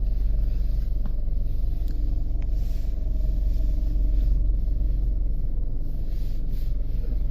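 Steady low rumble of a car running at low speed.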